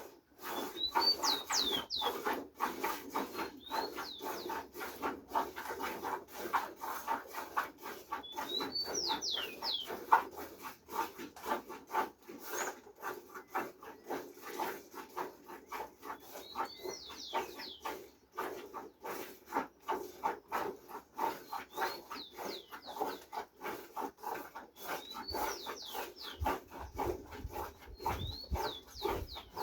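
A small bird's short chirping phrase, repeated every few seconds, over a dense, irregular clatter of rapid taps.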